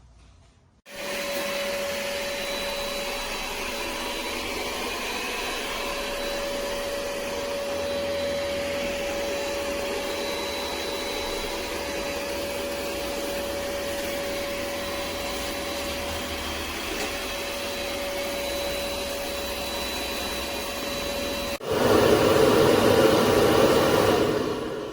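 Ecovacs Deebot X9 Pro Omni robot vacuum switching on abruptly and running with a steady whine. About 22 seconds in it shifts to a louder, harsher suction noise.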